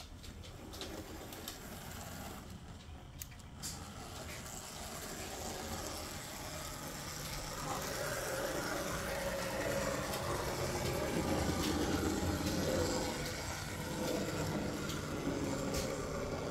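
Märklin Z-scale 0-6-0 steam tank model locomotive running on its track, its small electric motor and gears whirring steadily with scattered light clicks. It grows louder toward the middle as it comes closer, then eases off near the end.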